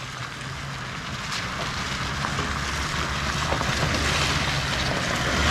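Toyota LandCruiser 79's V8 turbo-diesel driving on a dirt road: a steady low engine drone under tyre and wind noise that grows steadily louder.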